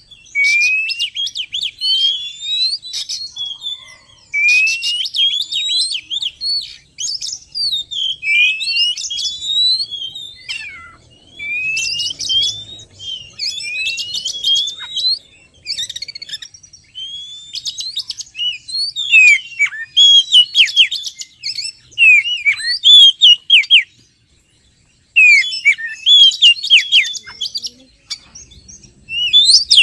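Oriental magpie-robin (kacer) singing: loud phrases of quick rising whistled sweeps and chattering notes, separated by short pauses, with a silent gap of about a second near the end.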